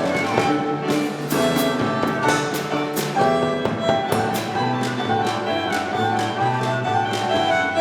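Klezmer ensemble playing live: violin, clarinet, piano, acoustic bass and percussion, with a steady beat on the drums under the melody.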